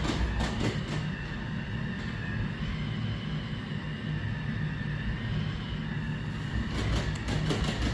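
Robot vacuum-mop running, a steady low motor hum with a higher whine over it, and light clicks and knocks near the start and again near the end.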